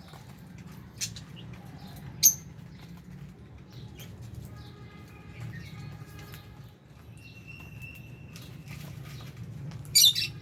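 Pet lovebirds and budgies in an aviary: wings fluttering and scattered chirps and warbles over a steady low hum. One sharp loud sound comes about two seconds in, and a brief loud high burst near the end.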